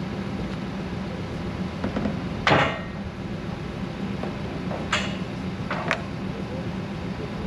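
Three metallic clanks, the loudest about two and a half seconds in and two lighter ones a few seconds later, each ringing briefly, over a steady low hum.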